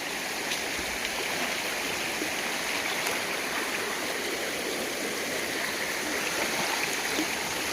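Rocky mountain creek rushing steadily over stones.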